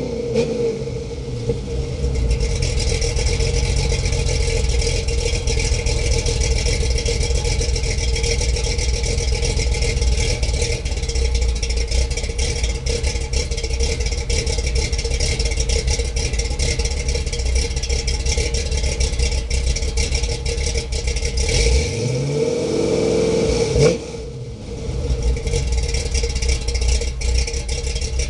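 Ford Fairmont engine and exhaust running with a steady, loud drone. Near the end, a rev climbs sharply and then cuts off, dropping back to a quieter idle.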